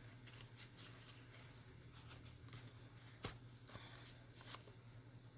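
Faint, irregular scratching and small handling noises with one sharper click a little past the middle, over a low steady hum.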